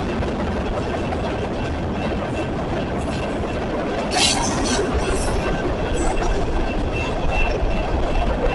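A train's cars rolling past on the rails: a steady rumble with faint, thin high wheel squeals, and a short sharp high-pitched burst about four seconds in.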